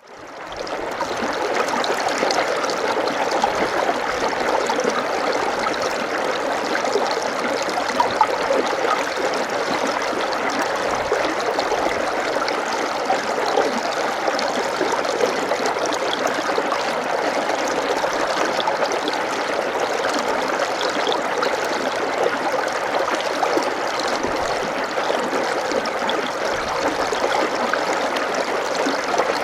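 Water running steadily, fading in over the first second and then holding an even, unbroken rush.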